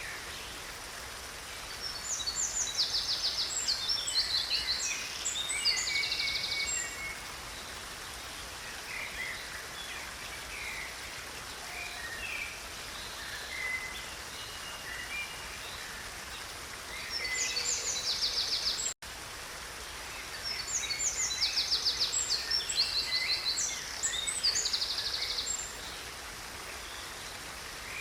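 Steady rushing of a small stream with songbirds singing over it: three bouts of rapid, high trilling song, the last two close together. The sound cuts out for an instant about two-thirds of the way through.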